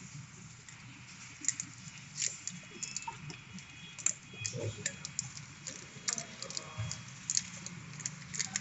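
Irregular light clicks and taps of small hard parts being handled, a few a second, with no steady rhythm.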